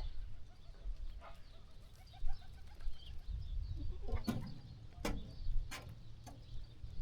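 Sheep farm ambience: birds chirping and cooing, with a few sharp clicks and knocks about four to six seconds in, over a low background rumble.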